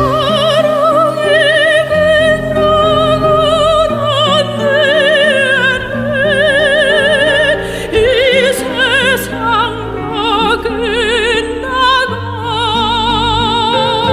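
Operatic soprano singing long, high notes with a wide vibrato over sustained instrumental accompaniment; the melody climbs higher in the last few seconds.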